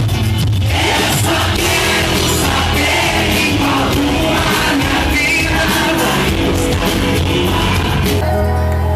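Live band music played loudly, with singing. The sound thins out near the end as the top of the mix drops away.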